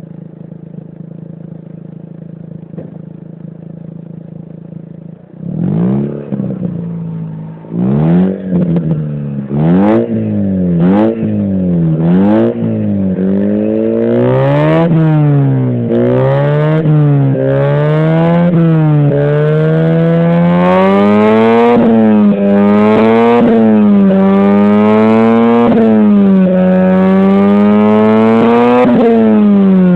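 Mazda RX-8's Renesis rotary engine exhaling through a Trust MX aftermarket muffler: idling steadily for about five seconds, then blipped in a handful of quick, separate revs, then revved up and down continuously and held higher toward the end.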